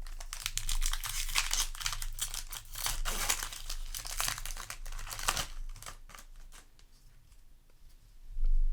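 Foil Magic: The Gathering booster pack wrapper crinkling and tearing as it is handled, dense crackling for about five seconds, then quieter rustling. A dull thump near the end.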